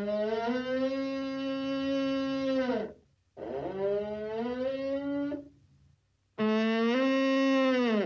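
Moose calling: three long, drawn-out nasal calls, each rising at the start and sliding down at the end, with short pauses between. The first is the longest, and the last is cut off near the end.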